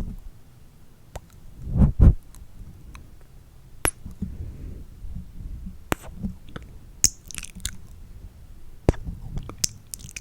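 Close-miked ASMR mouth sounds: scattered wet clicks, smacks and kisses right at the microphone, with a louder low thump about two seconds in.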